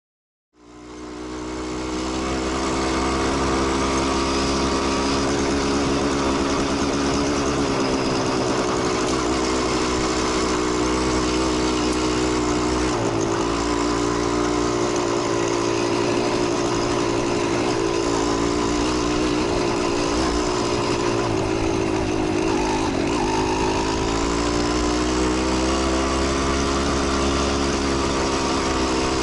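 Motorcycle engine running steadily at a near-constant pitch, with small dips and rises in engine speed; the sound fades in over the first two seconds.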